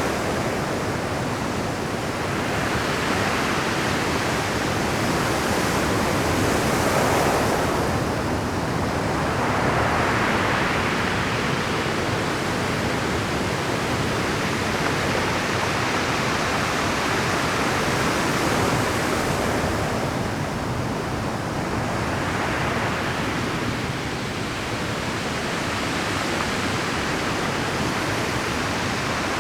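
Rough Pacific surf breaking on shore rocks at high tide: a continuous wash of waves. It surges louder as breakers come in, most strongly about a quarter of the way in and again past the middle.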